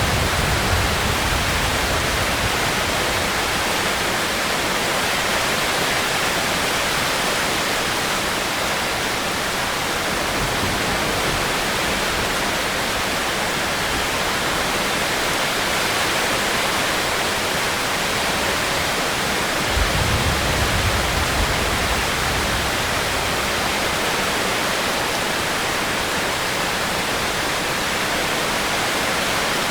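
Steady rain, an even hiss, with a brief low rumble at the start and another about two-thirds of the way in.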